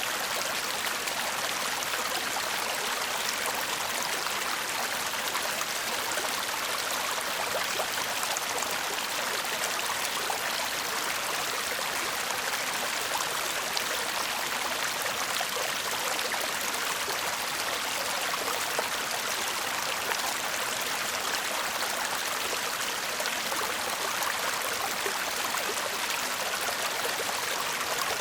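A shallow stream babbling and murmuring steadily, a constant hiss of running water with fine splashing flickers and little low rumble.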